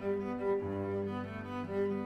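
Background music played on bowed string instruments, with low held notes changing every half second or so.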